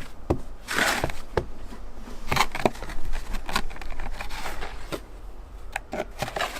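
Dustpan scraping and scooping snow off a sidewalk, a series of irregular scrapes and knocks several times a second.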